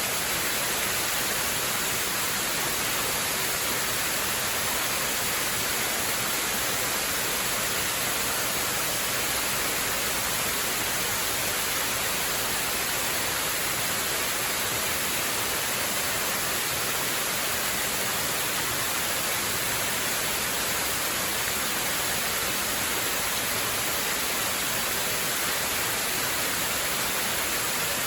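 Waterfall: falling water rushing in a steady, even hiss, strongest in the high range.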